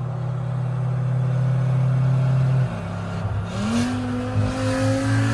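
BMW 540i's big-turbo B58 straight-six engine pulling steadily. Its note breaks off about two and a half seconds in, then revs climb in a rising pull from about three seconds in.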